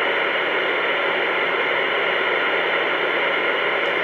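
Two-way radio receiver hissing with steady, thin static through its speaker between transmissions, an open channel with no voice on it.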